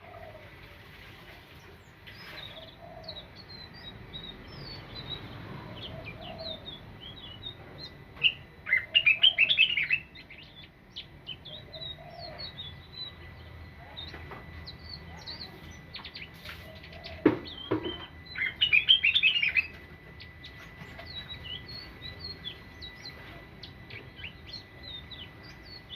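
Blue flycatcher singing: a steady scatter of thin, high chirps, broken twice by a loud burst of rapid twittering, once about a third of the way through and again about three-quarters through. A dove coos softly every couple of seconds underneath.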